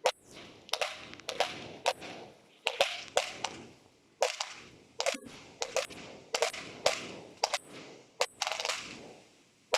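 Fireworks bursting in the air: a quick, irregular series of sharp bangs, about one to two a second, each trailing off in a short echo.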